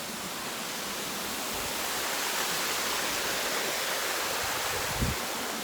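Waterfall rushing steadily. A brief low thump comes about five seconds in.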